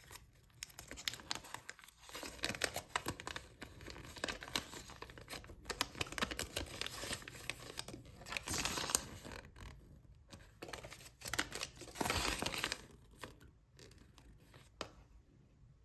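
Foil wrapper of a Kinder Surprise chocolate egg being torn open and crumpled: irregular crinkling and ripping, loudest in two stretches past the middle, dying away near the end.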